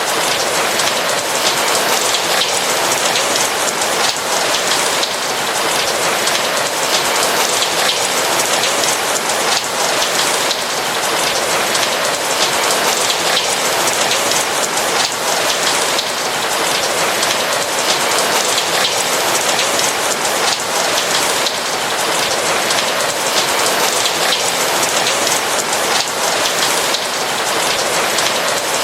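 Steady rain falling on a surface, an even patter of many drops, loud and continuous.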